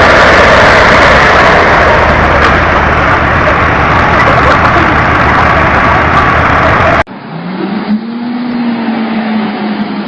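Loud, dense vehicle noise that cuts off abruptly about seven seconds in, giving way to a quieter, steady engine hum.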